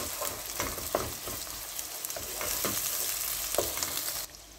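Sliced onions, garlic and ginger sizzling in hot oil in a steel pot, stirred with a plastic slotted spatula that scrapes against the pot in repeated strokes. The sizzling stops suddenly near the end.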